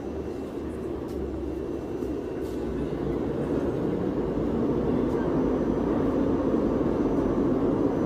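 Electric passenger train pulling into the station platform: its running rumble grows steadily louder, and a steady low whine comes in near the end.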